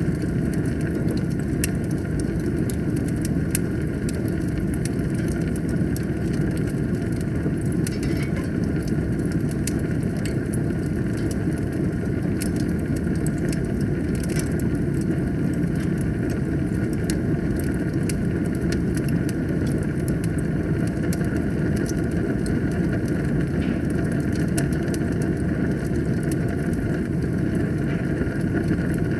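Wood fire burning in a fireplace: a steady low roar with frequent small crackles and pops scattered throughout.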